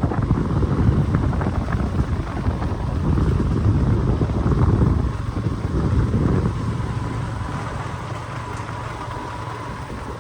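Wind buffeting the microphone over the steady low rumble of a moving vehicle, easing off a little in the last few seconds.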